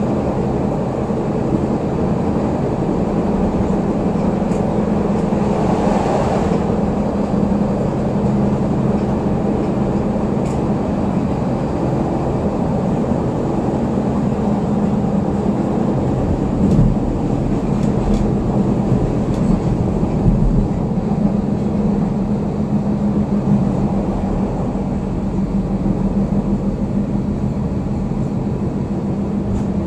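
CTA Yellow Line rapid-transit car running at speed, heard from inside the car: a steady rumble of wheels on rail under a constant low hum. About halfway through the rumble grows heavier for a few seconds, with several clicks and knocks from the track.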